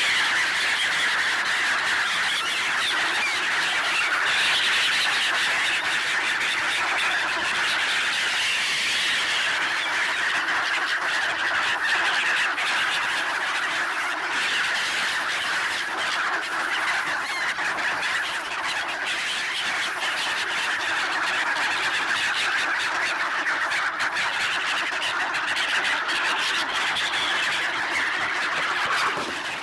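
A large mixed flock of black-headed gulls, swans and ducks calling all at once, a dense, unbroken clamour of overlapping cries, typical of birds crowding in to be fed bread.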